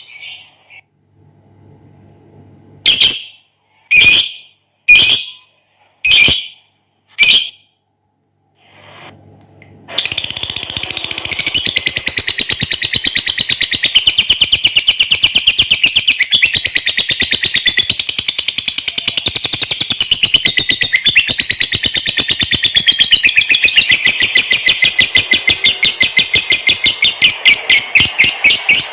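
Lovebird giving five short, sharp calls about a second apart, then from about ten seconds in breaking into a long, unbroken, very rapid chattering trill: the long 'ngekek' song prized in Indonesian lovebird keeping.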